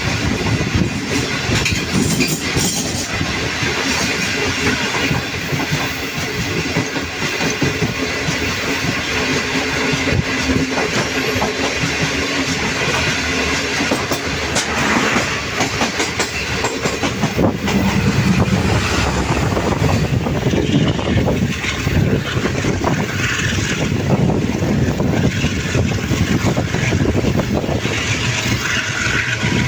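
Passenger train running at speed, its wheels clattering steadily over the rails under a continuous rushing noise.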